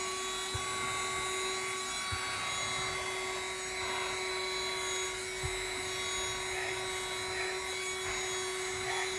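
Handheld car vacuum running steadily as it sucks up dust from car carpet: a steady motor whine over airflow hiss. A few faint knocks come through as the nozzle works the carpet.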